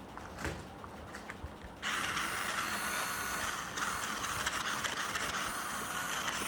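A few light clicks, then about two seconds in a battery-powered RC car's electric motor and gears start up suddenly and whir steadily, with a brief dip midway.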